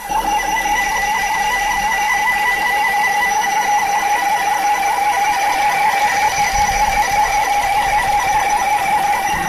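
Squeal from a Ford Fusion: a loud, steady, high-pitched squeak with a fast, even warble. It starts suddenly.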